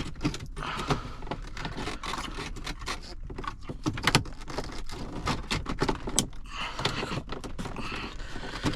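Hands working a stubborn plastic part out of a car's dashboard: irregular clicks, knocks and rattles of plastic being squeezed and pried.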